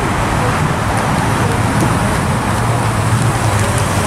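A 1955 Chevrolet's engine running at low speed as the car rolls slowly past, a steady low exhaust rumble that grows louder about two and a half seconds in.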